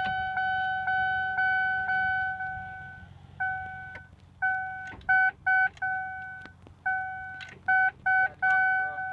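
A car horn, most likely the Lincoln LS's own, held for about three seconds and then sounded in a run of short and long irregular blasts, over a steady low hum.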